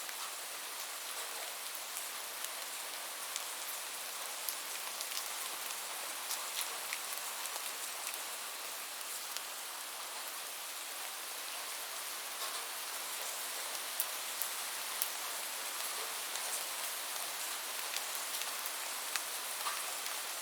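Steady rain falling, a constant hiss with many small, sharp drop ticks scattered through it.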